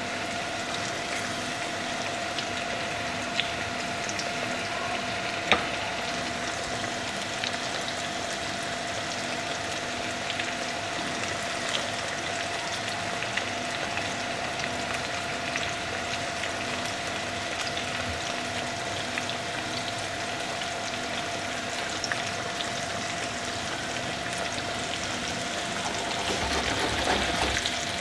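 Crumb-coated chicken fingers frying in hot oil in a frying pan: a steady sizzle with scattered crackles and one sharp pop about five and a half seconds in, getting briefly louder near the end.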